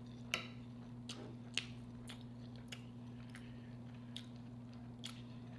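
Quiet chewing of fish with soft clicks scattered through it, over a steady low hum.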